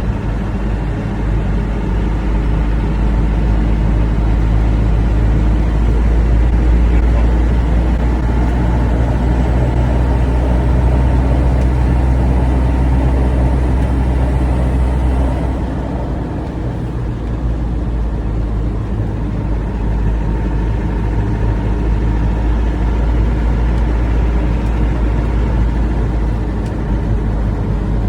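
1997 Land Rover Defender pickup's engine and drivetrain droning steadily from inside the cab while driving along at low speed. The drone eases off about halfway through, then builds again.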